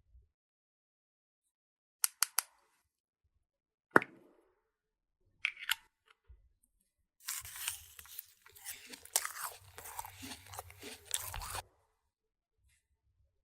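Small plastic toy pieces being handled: a few sharp clicks and taps, then about four seconds of crinkling and crackling, like plastic packaging being unwrapped.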